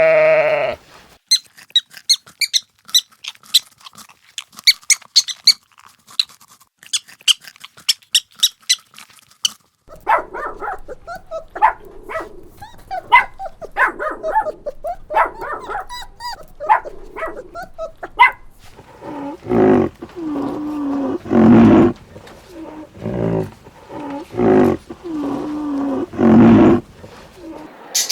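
A run of animal calls: rapid high squeaks for the first ten seconds or so, then quicker mid-pitched yelping calls, then louder drawn-out whining and barking calls like a dog's toward the end.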